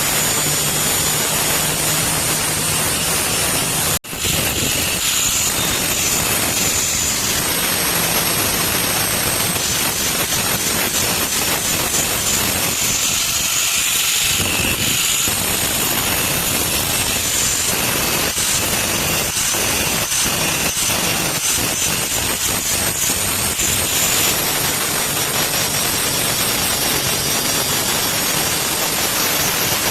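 Loud, steady noise of a running machine, with high faint tones over it and a sharp break about four seconds in.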